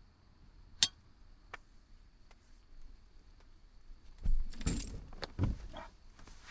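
Handling noises: a sharp click about a second in, then a short cluster of clattering and rustling near the end, with a light metallic jingle.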